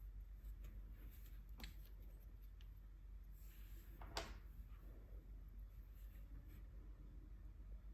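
Quiet handling noises from paint swatching: a faint tick about a second and a half in, a soft rustle a little after three seconds, then a single sharp click about four seconds in, the loudest sound, over a low steady hum.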